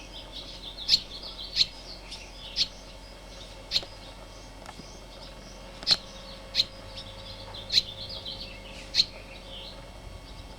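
Small birds chirping: about eight sharp, short chirps spaced irregularly about a second apart, with softer chirps between them.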